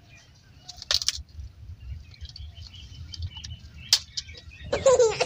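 Faint bird chirping, with two sharp clicks, one about a second in and one near four seconds.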